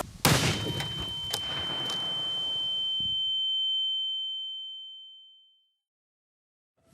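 A firecracker goes off with one sharp bang, followed by dying crackle and a steady high ringing tone that fades out with it to silence about five and a half seconds in.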